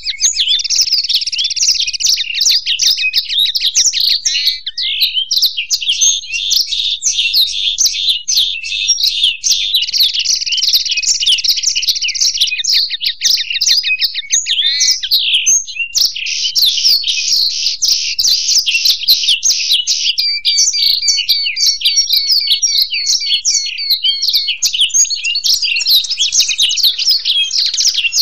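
Cage finches, a blackthroat (black-throated canary) and a European goldfinch, singing together in a continuous, rapid, high twittering song without pause.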